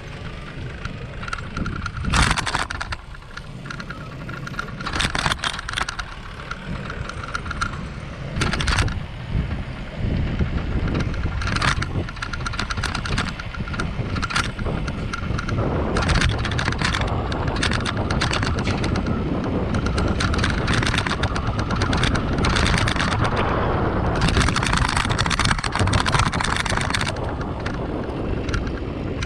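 Riding a bicycle with a GoPro: wind rumbling on the microphone and the bike rattling, with repeated short sharp clatters and rattles. The noise thickens and grows louder about halfway through.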